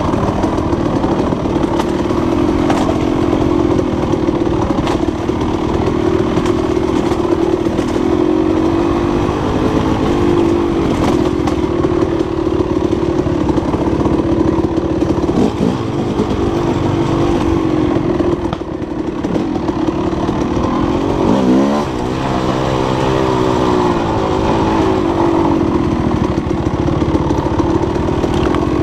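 Dirt bike engine running under load, its pitch rising and falling as the throttle changes. A little past two-thirds of the way in, the revs drop quickly and climb again.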